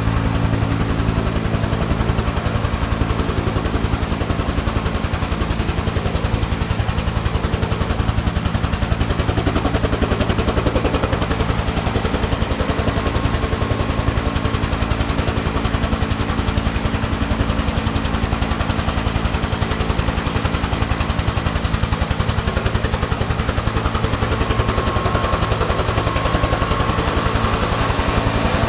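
A Bell UH-1H helicopter running steadily, its two-blade main rotor giving a fast, even chop over the hum of its turbine engine. A higher whine rises near the end.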